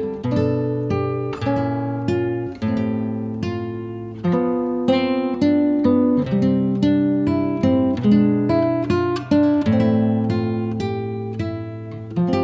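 Background music: an acoustic guitar plucking and strumming a steady chord pattern.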